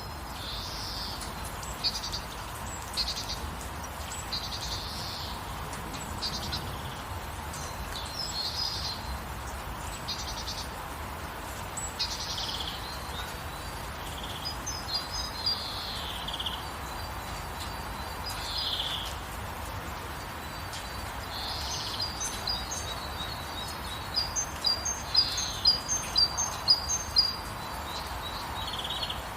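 Steady gentle rain with birds singing over it: short high calls that slide down in pitch, repeated every second or two, and from about halfway a fast run of high chirps that gets loudest near the end.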